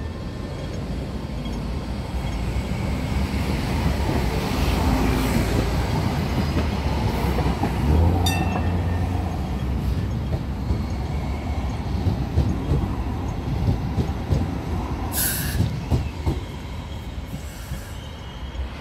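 Hong Kong Light Rail Phase 5 two-car light rail train running at the stop, its motor and wheel noise building to a peak about eight seconds in and then easing off. A brief sharp noise comes about fifteen seconds in.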